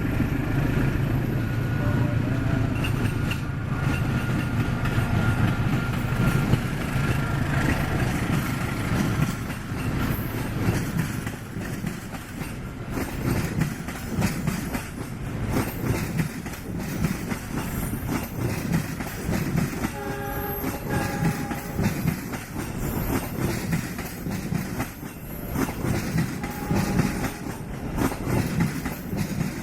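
A passing KAI passenger train of stainless steel coaches behind a diesel-electric locomotive. A steady engine drone gives way to wheels clattering over the rail joints as the coaches roll by. A short horn blast sounds about twenty seconds in.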